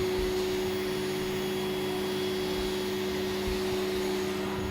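Vacuum cleaner running steadily, a constant motor hum with a steady whine.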